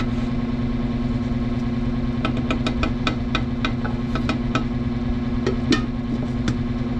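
Steady mechanical hum of a running motor, with a run of light clicks and taps from about two seconds in until near the end.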